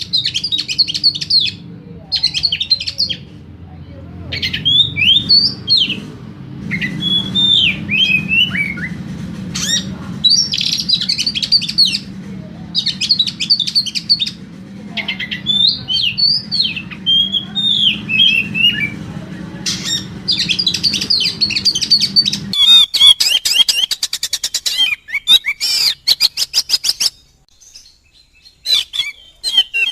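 Oriental magpie-robin (kacer) singing an agitated song: bursts of whistled phrases and fast chattering trills, one after another. About two-thirds of the way through a low background hum drops out, and the bird goes into rapid runs of harsh, rattling notes.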